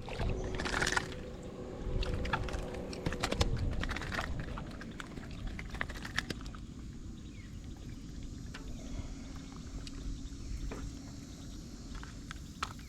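Water splashing and lapping at a fishing kayak, with small knocks and rattles of handling on the hull, busiest in the first few seconds and then settling.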